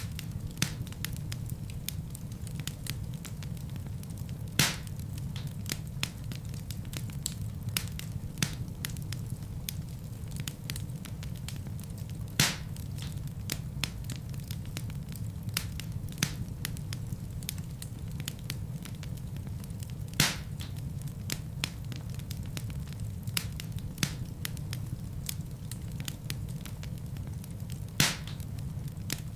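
Wood fire burning in a fireplace: a steady low rumble of flames with frequent small crackles and a few sharp, louder pops.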